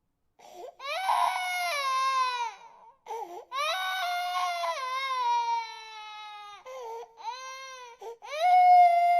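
A baby crying hard: a run of long, high wails, each falling in pitch, with short catches of breath between them and a brief silence at the start.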